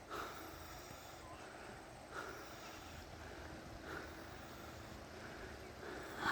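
Faint nasal breathing: a short breath about every two seconds, over a low steady hum.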